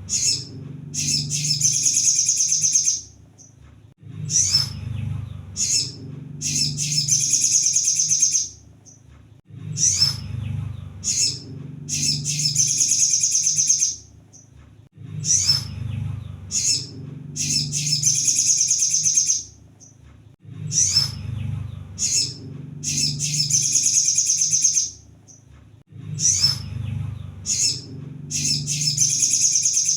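Crimson sunbird (kolibri sogon) song: a few short high chips, then a rapid, high-pitched trill about a second and a half long. The phrase repeats at even spacing about every five and a half seconds, like a looped recording.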